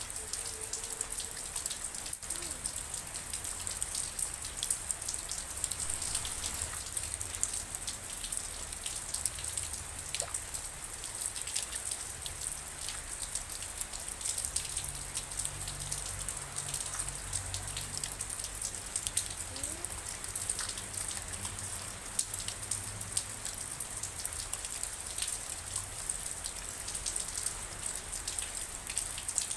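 Steady rainfall: a continuous high hiss with many sharp individual raindrop hits, over a low rumble.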